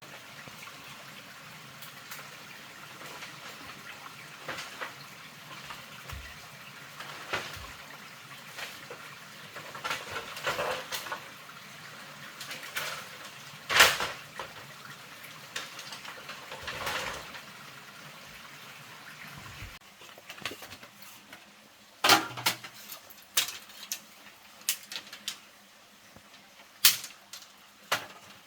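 Water running or splashing with scattered knocks for about twenty seconds; it then stops, and a run of sharp knocks and clatters follows, like pots and utensils being handled.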